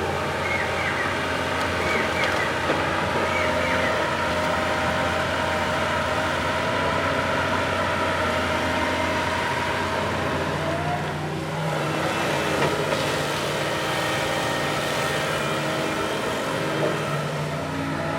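Backhoe loader's diesel engine running steadily while working, with a brief dip in its sound about eleven seconds in before it picks up again.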